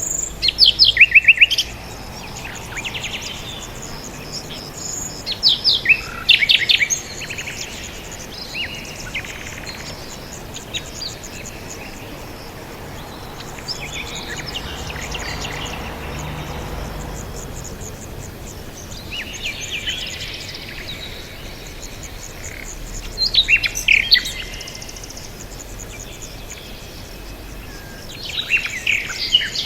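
Songbirds chirping in short bursts of rapid, high trills and tweets, loudest about a second in and around six seconds, with quieter spells between, over a steady outdoor background hiss.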